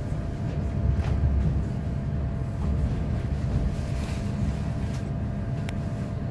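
Running noise of a c2c Class 720 electric multiple unit: a steady low rumble with a faint constant tone above it. Two sharp clicks come through, one about a second in and one near the end.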